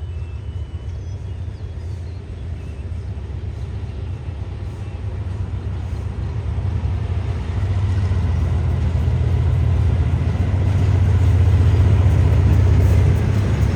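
Diesel train's engine rumbling low and steadily, growing louder through the second half as it approaches.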